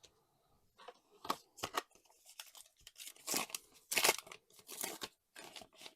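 Trading-card booster pack wrapper being torn open and crinkled by hand: a run of irregular rips and crackles, loudest about three to four seconds in.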